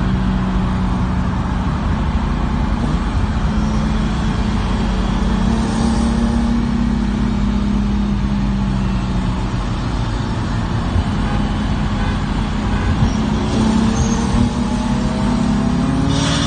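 Car engine heard from inside the cabin while accelerating hard. Its pitch climbs slowly, sags a little midway, then rises again near the end, over steady road and tyre rumble.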